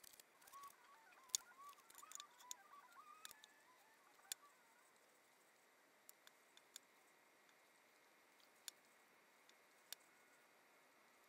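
Near silence, with scattered faint clicks and small handling sounds, and a few faint squeaky chirps in the first few seconds.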